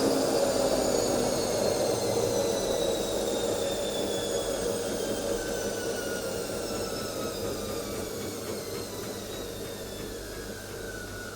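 A household appliance's electric motor winding down: a high whine that slowly falls in pitch and fades over the whole stretch.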